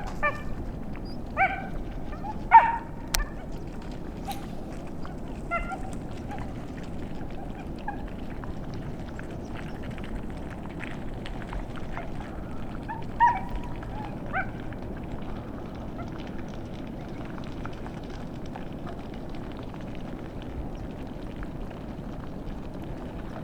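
Coyotes giving scattered short yelps and yips, a dozen or so, the loudest about two and a half seconds in and again around thirteen seconds, over a steady low background hiss.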